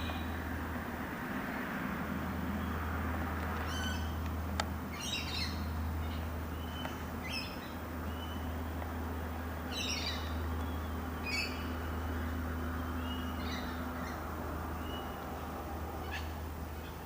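Birds calling: short, high, descending chirps at irregular intervals, six or seven in all, over a steady low rumble. A single sharp click comes about four and a half seconds in.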